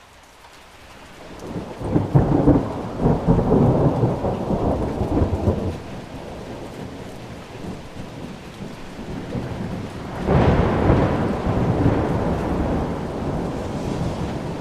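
Thunder over steady rain. A long rolling peal builds from about a second and a half in and dies down by about six seconds. A sharper clap comes about ten seconds in and rolls off slowly.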